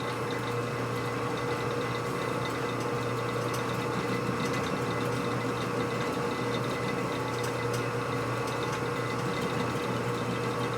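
Steady hum of a running machine, with a constant pitched tone over a low drone and no change in speed or load.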